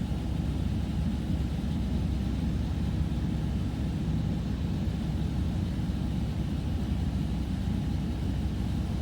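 Steady low rumble of a touchless automatic car wash running, heard from inside a pickup truck's closed cab.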